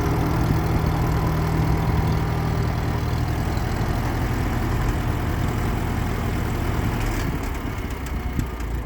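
1952 Cockshutt 30 tractor's four-cylinder engine idling steadily. About seven seconds in, its even running breaks up into an irregular sound with scattered clicks.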